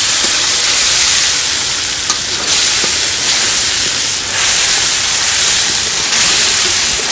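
Watery blended herb and pepper mixture sizzling hard in hot oil in a wok on high heat: a loud, steady hiss as it fries down toward a thick paste.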